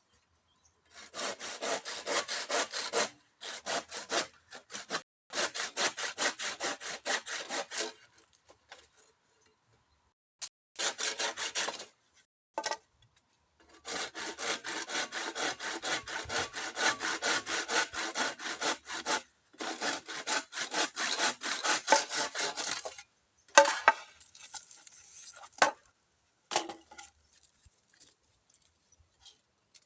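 Hand saw cutting through bamboo in several bouts of quick, even back-and-forth strokes with short pauses between them. A few separate knocks and clatters follow near the end.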